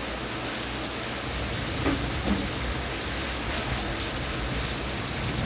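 Steady heavy rain, an even hiss with no letup. Two short pitched sounds break through about two seconds in.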